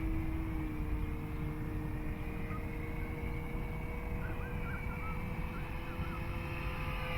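Electric motor and propeller of a Dynam Cub RC plane in flight, a steady whine that shifts slightly in pitch. Faint chirps, likely birds, come in briefly near the middle.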